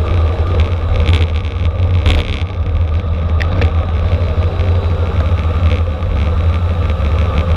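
Wind rushing over the microphone and steady road rumble from a road bike at racing speed, with a few faint clicks.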